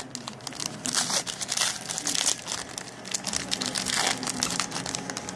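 Foil wrapper of a Panini Prestige football card pack being torn open and crinkled, a dense run of crackles and rustles.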